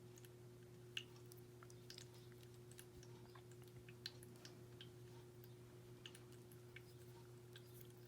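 Faint, scattered small clicks of beads and their little packets being handled and sorted, with a louder click about a second in and another about four seconds in, over a steady low hum.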